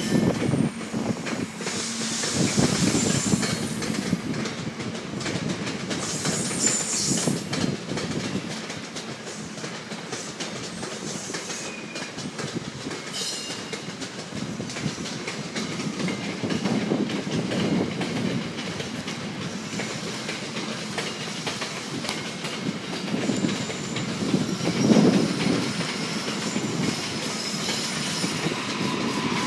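SEPTA push-pull commuter train's passenger coaches rolling past, their steel wheels rumbling and clicking over the rail joints in repeated bursts.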